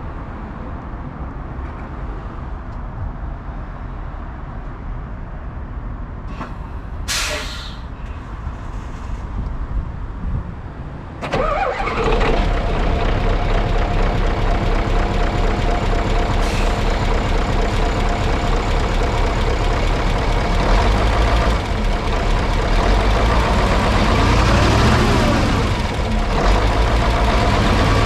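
Mitsubishi Fuso D8AY diesel V8 of a 1995 Hyundai Aero Queen high-decker bus, cold-started: a low rumble with a short sharp hiss about seven seconds in, then the engine catches about eleven seconds in and runs at a steady idle.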